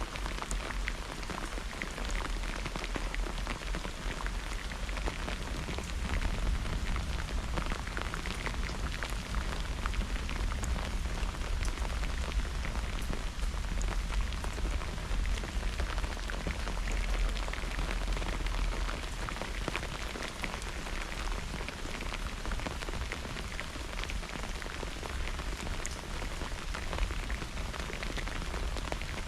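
Steady heavy rain falling, with the pattering of many individual drops, over a low rumble that swells slightly a few times.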